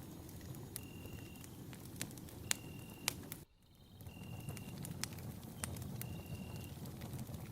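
Campfire burning with a low steady rush and frequent sharp crackles and pops of the wood. A short, steady high-pitched chirp repeats about every second and a half alongside it. Near the middle all sound drops out for about half a second.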